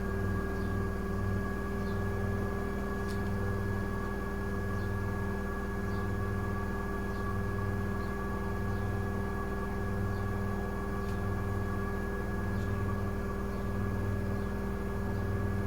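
Miele W1 front-loading washing machine running steadily, with a motor hum and whine at constant pitch. A lower hum swells and fades about once a second, and faint ticks come at a regular beat.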